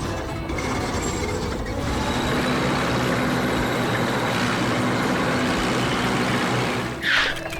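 A heavy construction vehicle running with a dense, steady mechanical clatter. A short, sharp, high-pitched burst comes near the end.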